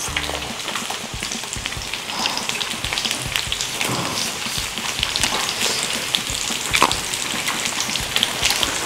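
Close-miked eating sounds, chewy chewing and crisp crunching of grilled food, over a steady crackling sizzle of meat frying on an electric griddle.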